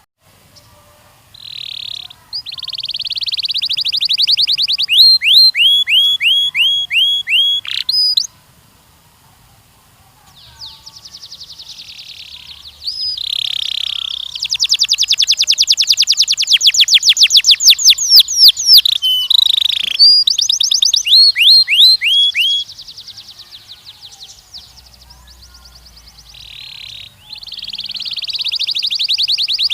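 Canary singing long, loud phrases of fast rolling trills and runs of repeated down-slurred whistled notes, broken by short pauses of a second or two.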